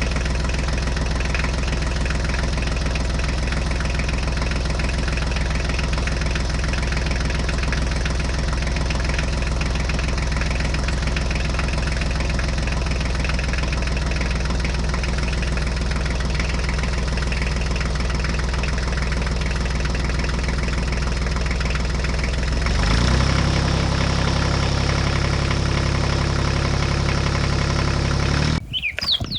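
Engine idling steadily; about 23 seconds in, its note steps up to a higher pitch, and it cuts off abruptly near the end.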